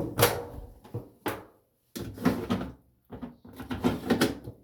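A run of about five knocks and clatters in quick succession, each dying away quickly.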